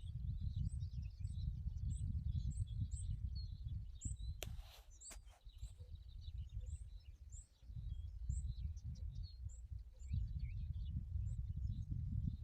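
Small birds chirping, many short high calls in quick succession, over a low rumble that fades for a few seconds midway. A sharp click about four and a half seconds in.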